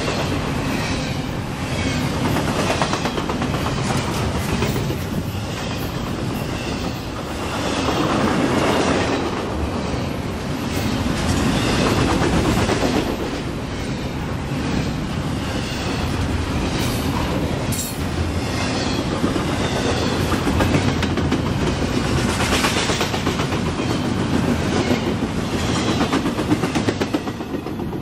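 Double-stack container freight train passing at speed, its wheels clacking on the rails in a steady rolling clatter that falls away near the end as the last car clears.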